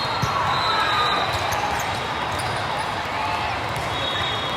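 Volleyball gym during a match: balls thudding and bouncing on the hardwood, against a steady background of voices.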